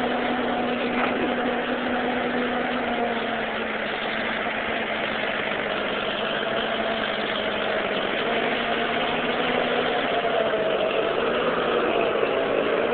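1949 Ford 8N tractor's four-cylinder engine running steadily, skipping only a little now that its wiring fault has been worked on.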